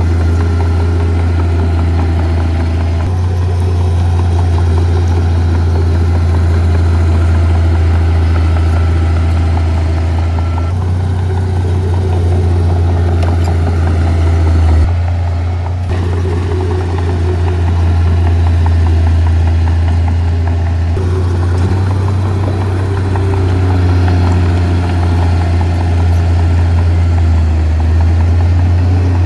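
Diesel engines of heavy earth-moving equipment running at a steady low drone, the sound shifting abruptly several times.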